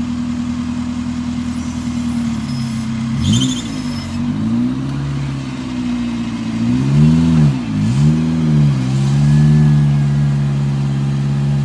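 Off-road 4x4's engine running steadily, then revved up and down in several quick blips from about three seconds in, before holding at a steady, somewhat higher speed under load.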